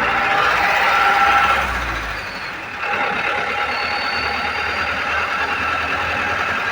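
A vehicle's engine running steadily during the ride, easing off briefly about two seconds in and then picking up again.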